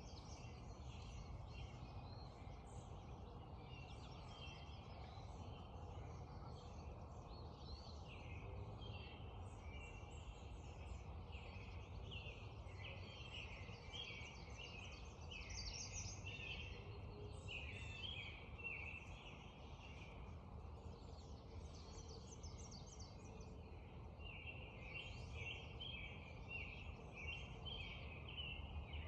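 Spring dawn chorus: many songbirds singing and chirping at once in a continuous, overlapping chatter, over a low steady rumble.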